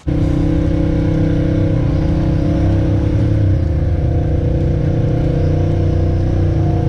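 Honda Pioneer 1000 side-by-side's engine running at a steady speed while under way.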